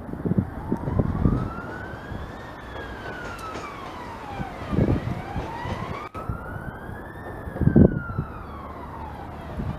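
Emergency vehicle siren sounding a slow wail, rising and falling about every five seconds.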